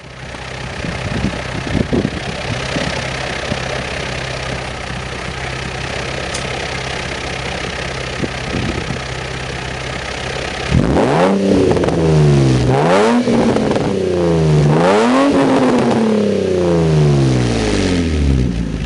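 Nissan 350Z's 3.5-litre V6 running through a loud catless aftermarket exhaust: it idles steadily, then about eleven seconds in it is revved three times, the pitch jumping up and falling back each time.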